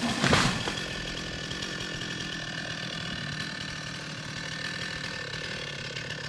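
Chainsaw running: a loud burst in the first half second, then a steady, even-pitched run.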